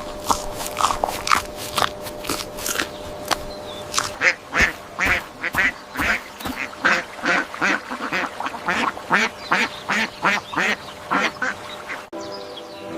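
Ducks quacking over and over in short, separate calls, a few each second, cutting off abruptly near the end.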